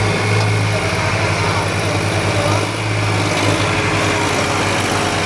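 Tractor engine running steadily near idle, with an even low pulsing throb.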